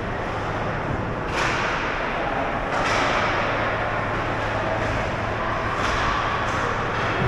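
Ice hockey game in play: skate blades scraping the ice in several sharp strokes, with stick-and-puck slaps and faint voices in the rink.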